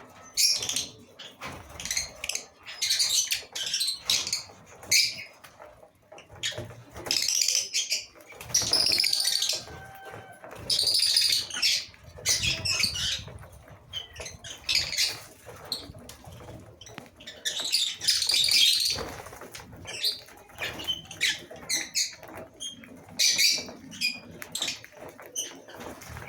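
A colony of lovebirds in an aviary, giving shrill chirps and squawks in short, irregular bursts, with wings fluttering among them.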